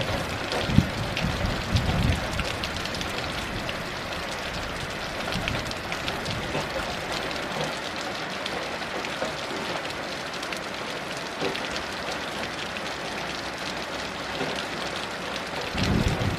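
Heavy rain falling steadily. Low rumbles of distant thunder die away over the first two seconds and start again near the end.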